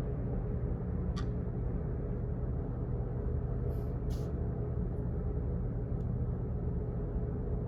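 Steady low hum and rumble of office background noise, with a few short, sharp clicks at irregular moments, two of them close together about midway.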